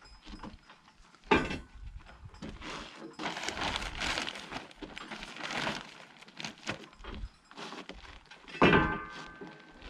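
Two loud clanks, one about a second in and one near the end; the second rings briefly like struck metal. Between them are quieter knocks and handling noise from gear being moved.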